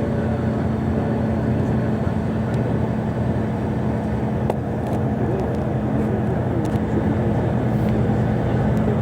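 Steady engine and road noise of a moving vehicle, an even low hum that does not change.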